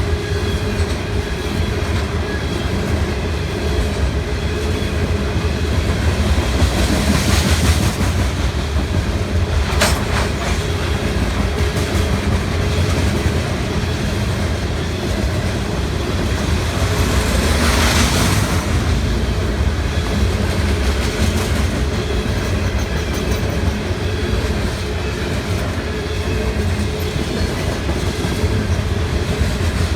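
CSX coal train rolling past: a steady low rumble of railcars with wheels clattering over the rails. The noise swells briefly about seven and eighteen seconds in, and there is one sharp clank near ten seconds.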